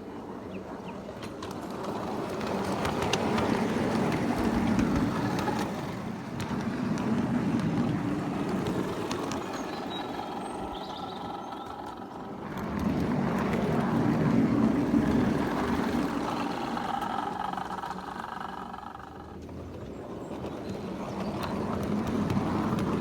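A 5-inch gauge miniature railway works train running along the track, its mechanical running noise growing louder and fading away several times.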